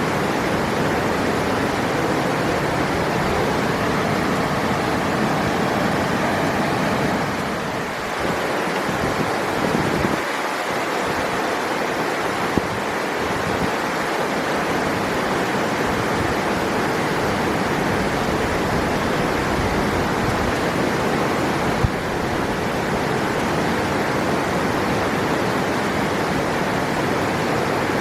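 River water rushing steadily, a continuous even roar of flowing water. Two faint sharp ticks sound briefly in the middle.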